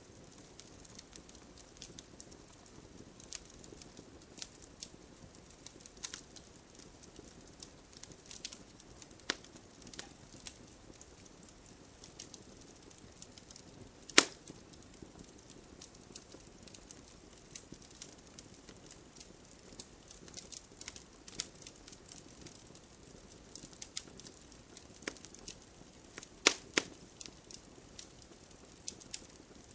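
Wood fire crackling, with irregular sharp snaps and pops over a soft steady hiss. The loudest pop comes about halfway through, and a quick pair follows near the end.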